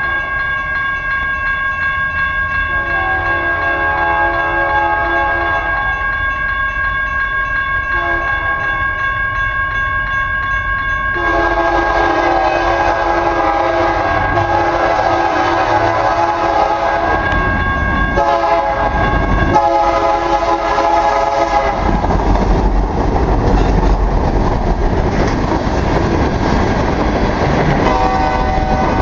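BN EMD SD60M diesel locomotives sounding their air horn in repeated blasts, one long blast in the middle, as the freight train approaches. After the horn stops, the locomotives and train run past with a loud rumble of engines and wheels, and there is one more short horn sound near the end.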